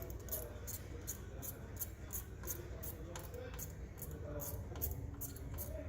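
Light metallic clicking, about three or four clicks a second, over a low steady hum.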